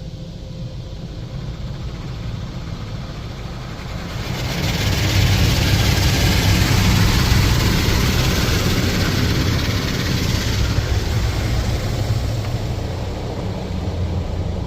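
High-pressure water jets of a WashTec SoftCare 2 Pro touchless car wash spraying the car: a loud hiss that swells about four seconds in, holds for several seconds, then eases off toward the end, over a steady low rumble.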